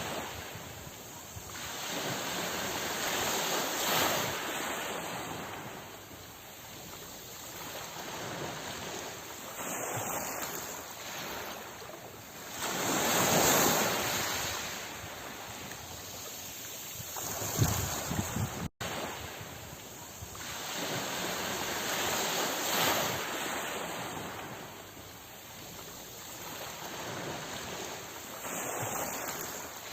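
Sea waves surging and washing on the shore, the noise swelling and easing every few seconds, with the biggest surge a little before halfway. A brief dropout cuts the sound for an instant a little past halfway.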